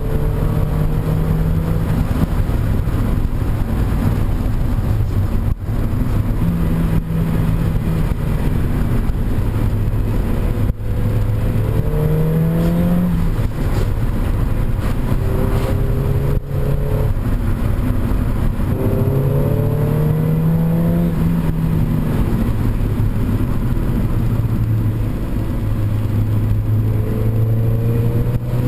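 1998 Mazda MX-5 1.8 four-cylinder engine through an IL Motorsports cat-back exhaust, heard from inside the cabin while driving. The engine note rises several times as it pulls through the gears and drops back between pulls, over a steady road rumble.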